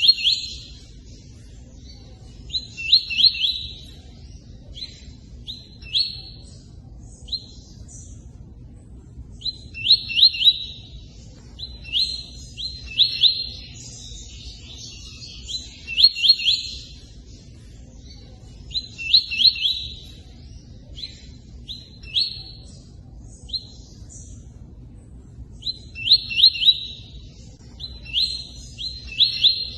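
A tui-tui bird singing in repeated short bursts of rapid, high chirping notes, one burst every two to four seconds with brief pauses between, over a steady low rush of running water.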